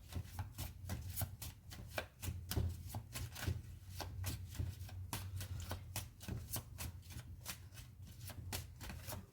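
Tarot cards being shuffled by hand: a steady run of quick, irregular card clicks.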